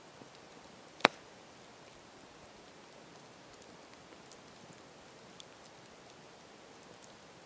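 Campfire burning with a steady soft hiss and faint scattered crackles, and one loud sharp pop about a second in.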